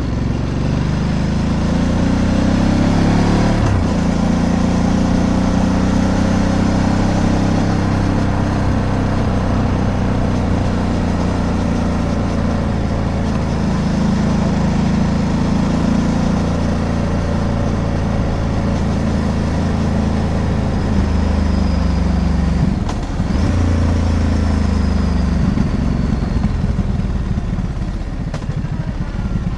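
Ducati DesertX Rally's 937 cc V-twin running under way, heard from the rider's seat. The engine pitch climbs as it accelerates and changes about three and a half seconds in, then holds a steady cruise. It drops briefly a little past two-thirds of the way through, climbs again, and eases off near the end.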